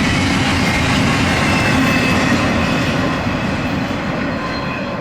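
Fast CSX intermodal freight train passing, a steady rumble of cars and wheels on the rails with some clickety-clack, beginning to fade about three seconds in.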